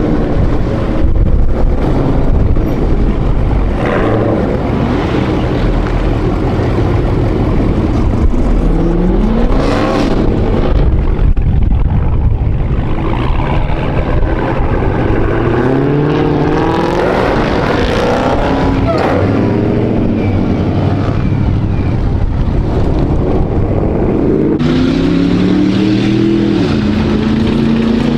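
V8 muscle-car engines running loud and being revved repeatedly, the pitch climbing and dropping several times over a heavy low rumble.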